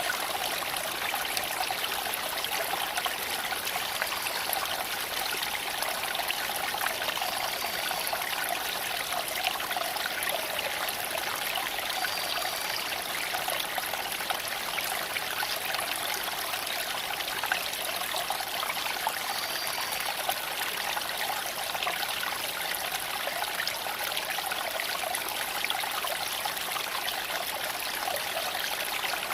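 A small creek flowing over stones, a steady babbling rush of water that holds even throughout.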